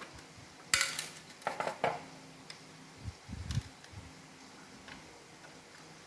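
Hard plastic parts of an iRobot Roomba clicking and clattering as they are handled and fitted together: a sharp clatter about a second in, a quick run of clicks near two seconds, then a few dull knocks.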